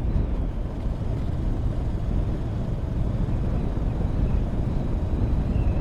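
Motorcycle riding along: a steady low rumble of engine, road and wind noise.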